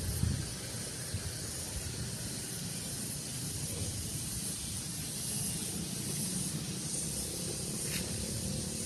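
Steady breeze: wind rumbling low on the microphone under a constant high hiss, with one faint click near the end.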